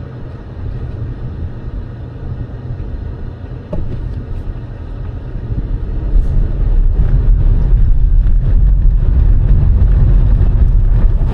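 Car driving: steady low road and engine rumble that grows much louder about six seconds in.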